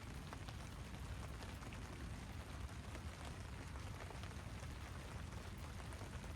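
Steady rain falling, many small drop taps over a low rumble.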